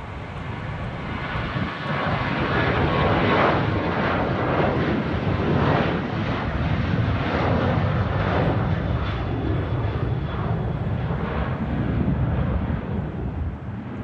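Airliner passing close by, its engine noise swelling to a loud rush with a pulsing, wavering quality and easing off near the end.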